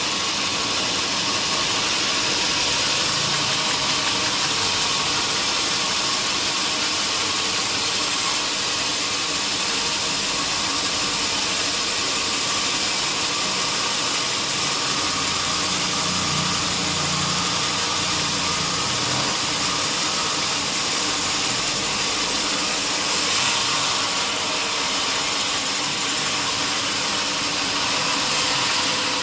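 Sawmill machinery running steadily: a constant dense hiss over a low engine hum.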